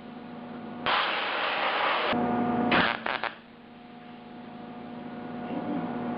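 MIG welder laying tack welds on a thin sheet-steel door patch panel: a crackling burst of about a second, then a few shorter bursts, with a steady hum between them.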